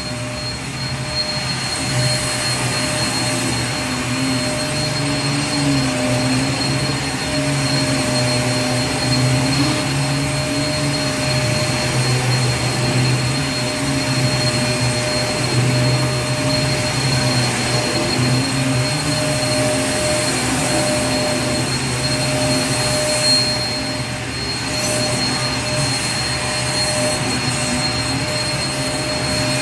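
Vacuum cleaner running steadily: a constant rush of air with a steady high-pitched motor whine over a low hum that wavers slightly in pitch.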